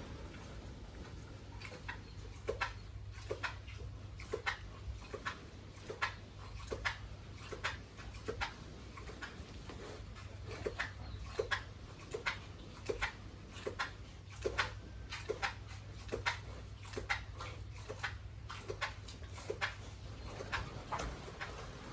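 Pigs making short, sharp sounds, about one or two a second, over a low steady hum.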